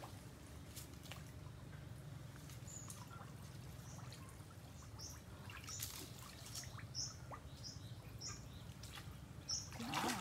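A small bird chirping repeatedly in short, high notes, from about three seconds in, over a low steady hum and a few faint clicks.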